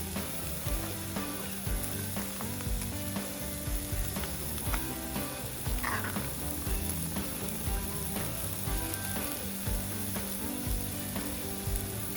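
Meat sizzling and frying on a hot iron plate over a campfire, a steady hiss with frequent small pops and crackles.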